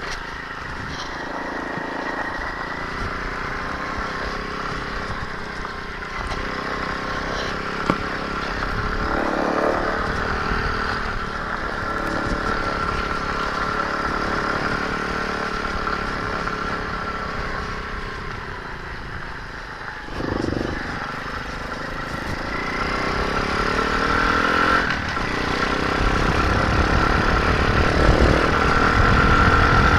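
Pitbike's 125cc four-stroke engine running steadily, growing louder and heavier near the end.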